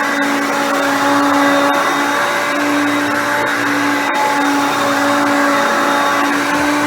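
Hoover Concept Two upright vacuum running on carpet: its 5.6 amp motor gives a loud, steady whine, with the brush roll turning on a fresh belt. The pitch wavers slightly every couple of seconds.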